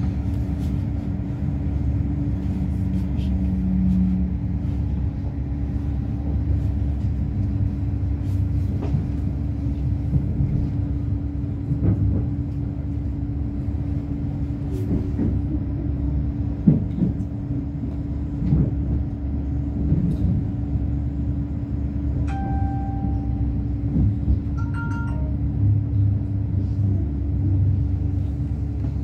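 Steady rumble of a Greater Anglia Class 755 train running on the track, heard inside the passenger carriage, with a constant low hum over it. A few faint clicks, and two brief high tones about 22 and 25 seconds in.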